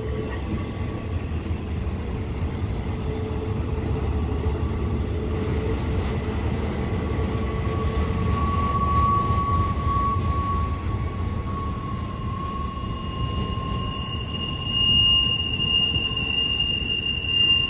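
Intermodal freight train cars rolling past with a steady low rumble, their wheels squealing in long high-pitched tones, a higher squeal strongest near the end.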